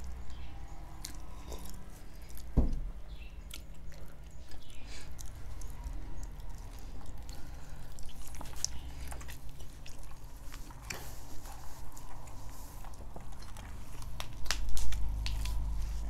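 Close-miked eating sounds: chewing, and steamed whole chicken being torn apart by hand. Scattered wet clicks and smacks run over a steady low hum, with one sharp click about two and a half seconds in.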